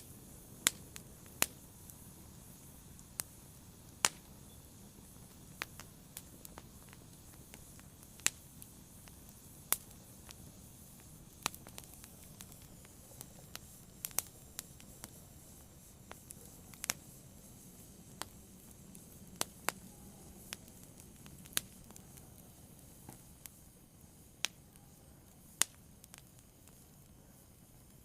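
Fire burning, crackling with irregular sharp pops and snaps over a faint steady hiss.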